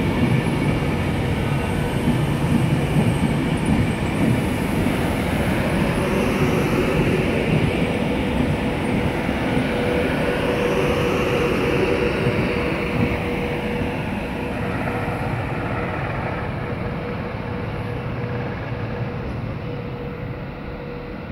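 Class 390 Pendolino electric train running past along the platform, a dense rumble of wheels on rails with a steady whine over it. The sound fades gradually over the last third as the train moves away.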